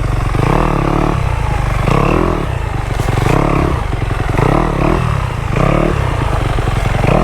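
Dirt bike engine revved hard in repeated bursts, about one a second, its pitch rising and falling as the bike labours through deep mud.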